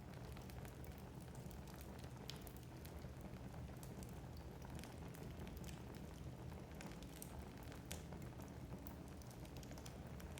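Wood fire burning in a fireplace: a low steady rumble of flames with frequent sharp crackles and pops from the burning logs.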